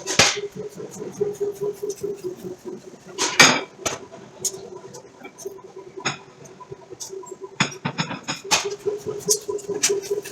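Forge-shop sounds: sharp metallic clanks and knocks at irregular intervals, the loudest about three seconds in and a quick cluster near the end. Under them runs a steady, fast-pulsing machine hum that drops away for a few seconds in the middle and comes back.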